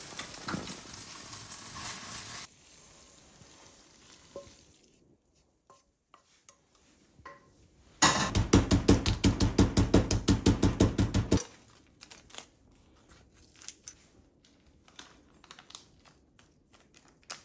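Kitchen cooking sounds: food sizzling in a pan for the first couple of seconds, then light scattered clinks of utensils, and about halfway through a loud, fast run of even strokes, about six a second for some three seconds, then more light clinks.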